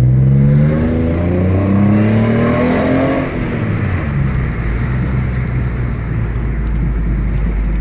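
Alfa Romeo 156 3.0 V6 Busso engine through an aftermarket sports exhaust, accelerating with the revs climbing steadily for about three seconds. The throttle then lifts and the engine settles into a steady low rumble.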